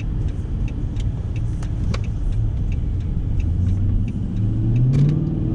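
A 2013 Dodge Charger Pursuit with a mid-muffler delete, driving with a steady low engine and exhaust rumble. The engine note rises for the last second or so as the car accelerates.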